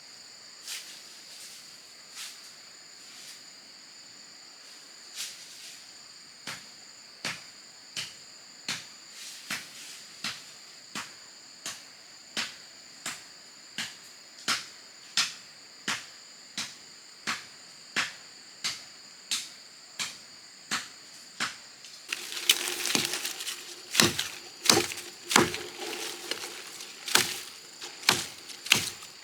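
Steady, regular chopping strikes into wood, about one every three-quarters of a second, over a steady high drone of crickets or cicadas. About 22 seconds in, a crackling, rustling noise joins the strikes.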